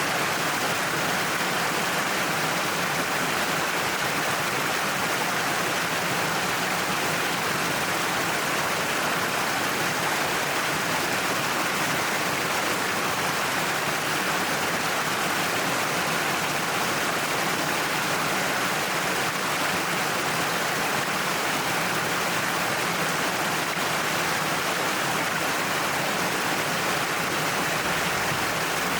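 Waterfall pouring down a cliff face, a steady, unbroken rush of falling water.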